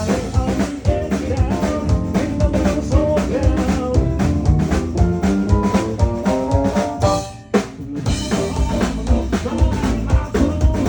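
Live band playing an upbeat song driven by a full drum kit. The band stops for a moment about seven seconds in, then comes back in.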